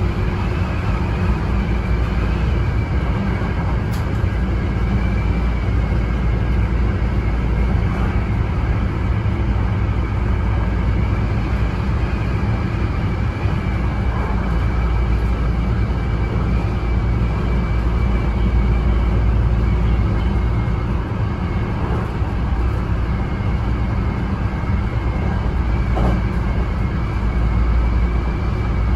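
Hankyu 9300 series electric train running at steady speed: a continuous low rumble of wheels on rail with a faint constant high whine over it.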